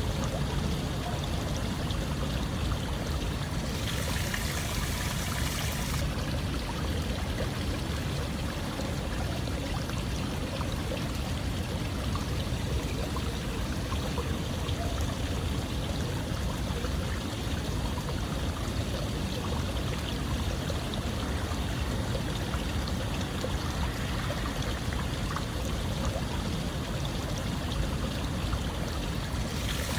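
Running water flowing steadily, an even, unbroken rush with a brighter hiss for about two seconds near the start.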